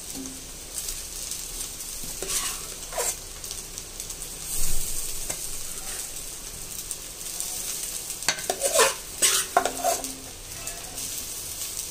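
Boiled basmati rice and eggs with vegetables frying and sizzling steadily in a pan. It is stirred in, with scattered clinks and scrapes of a utensil against the pan, the loudest around 8 to 10 seconds in.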